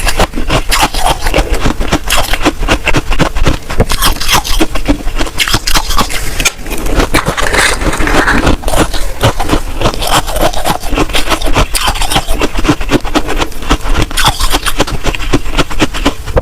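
Freezer frost crunching and scraping: a dense run of crisp crackles.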